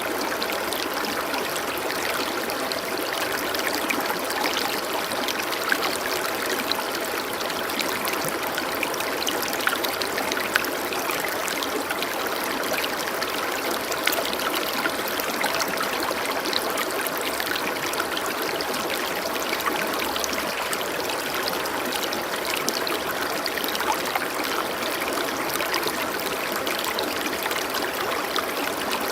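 Water flowing steadily in a stream, a constant rush with small trickles and splashes scattered through it.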